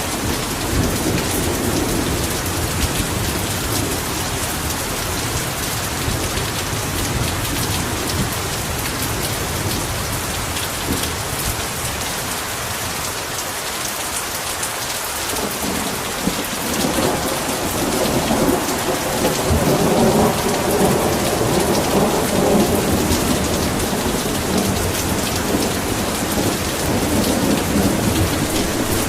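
Heavy rain falling in a steady hiss, with low rolling thunder at the start. The thunder fades out, then rumbles up again from about halfway through, loudest around two-thirds of the way in.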